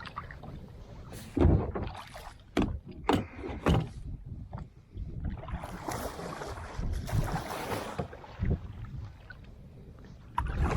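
Kayak being paddled: several sharp knocks of the paddle against the hull and splashes in the first four seconds, then a longer swish of water, with wind rumble underneath.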